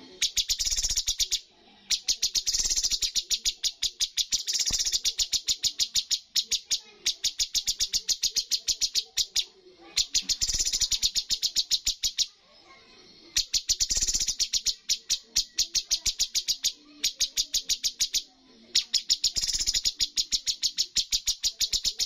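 Cucak cungkok song: trains of rapid, sharp repeated notes, about ten a second, in bouts of two to four seconds separated by short pauses.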